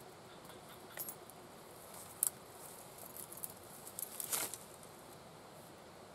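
Scattered light clicks and rustles of small objects being handled, loudest about two seconds in and again around four seconds, over a steady background hiss.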